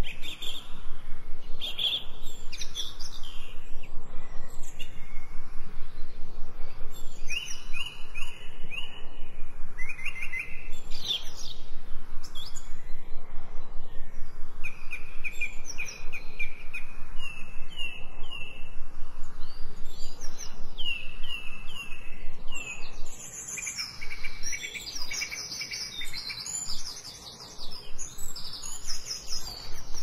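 Songbirds singing: several overlapping songs of quick repeated whistled notes and trills, with a faint steady outdoor background.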